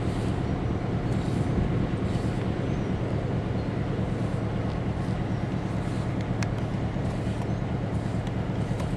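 Diesel-electric freight locomotive engine running at a steady throttle, a continuous low drone, with a couple of faint metallic clicks near the end.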